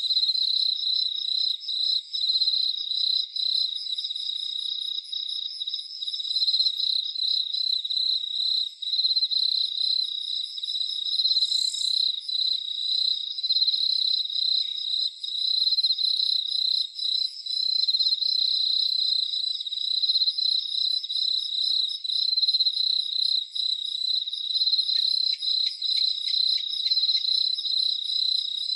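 A chorus of crickets chirping steadily at one high pitch in a fast, continuous pulse, with a fainter, higher pulsing insect call above it. There is a brief extra chirp about twelve seconds in and a few faint clicks near the end.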